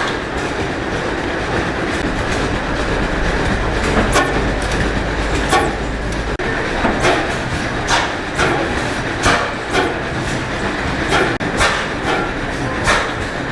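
Columbus 25 hp cam-stopper hit-and-miss engine running, a steady mechanical rumble broken by sharp clacks about once a second. A deep low hum under it drops away about halfway through.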